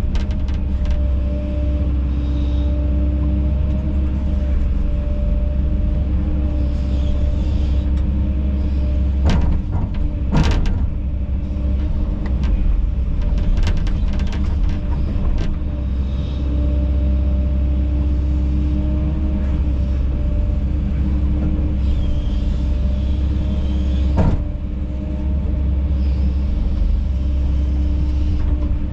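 Kobelco SK210 hydraulic excavator's diesel engine running steadily while digging, with a handful of sharp knocks and clanks, a cluster about ten seconds in and another later on.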